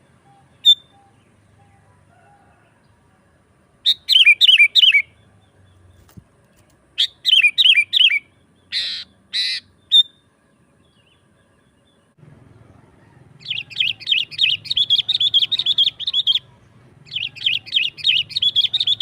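Sooty-headed bulbul (kutilang) calling energetically: a single note, then two short bursts of quick falling warbled notes, two harsh scratchy calls, and from about two-thirds through, long fast runs of chattering notes.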